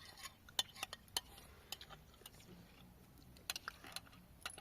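Scattered light clinks and taps of metal cooking utensils against pots and dishes: about a dozen sharp, irregular strikes.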